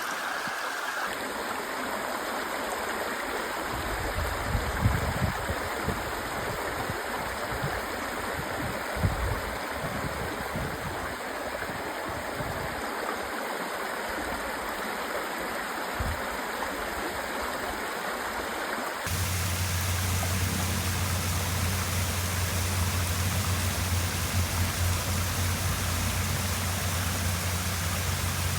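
Steady rush of falling and flowing water from a waterfall and stream, with a few low thumps. About two-thirds of the way through the sound changes abruptly to a slightly louder rush with a steady low hum underneath.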